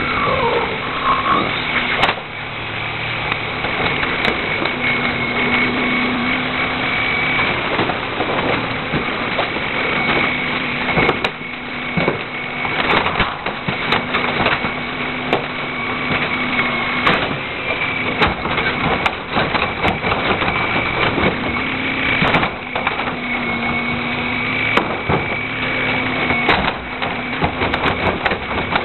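Heil 5000 rear-loader garbage truck at work: the engine running with a steady whine that comes and goes, and many sharp knocks and clatters at irregular moments.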